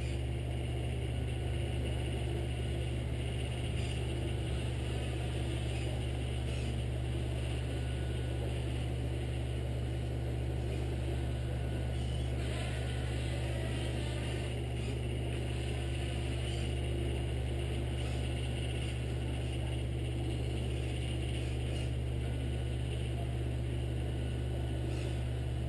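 Steady, unchanging low engine-like drone from a 1/14-scale radio-controlled Scania R620 truck model.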